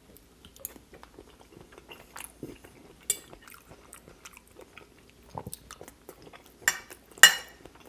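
A person chewing sautéed mushrooms close to the microphone, with scattered sharp clicks. The loudest click comes about seven seconds in.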